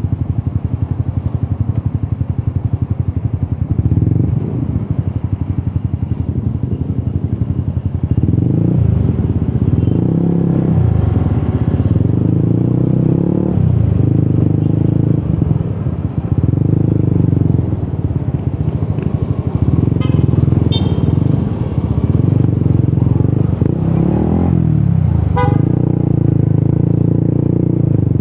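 Yamaha XSR 155's single-cylinder engine through an Akrapovic exhaust, pulling under load and shifting through the gears, with the note dipping briefly at each shift.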